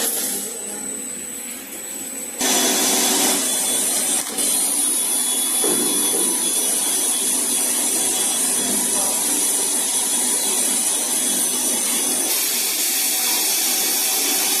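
Air-driven machine blowing, starting abruptly about two seconds in and running with a steady, loud rushing hiss; the hiss eases a little near the end.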